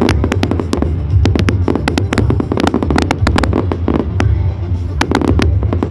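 Fireworks going off: many sharp bangs and crackles in quick succession over a steady low rumble.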